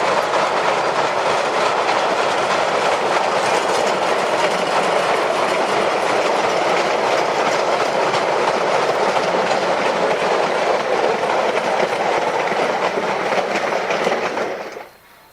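Cars of a narrow-gauge mixed train rolling past, their wheels clicking and rumbling over the rail joints in a steady run of ticks; the sound cuts off suddenly near the end.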